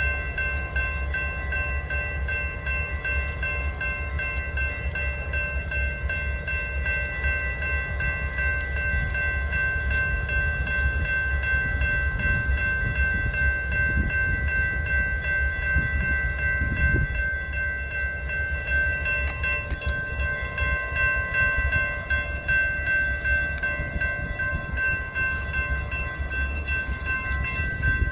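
A train running by: a low rumble with several steady high-pitched tones ringing over it the whole time.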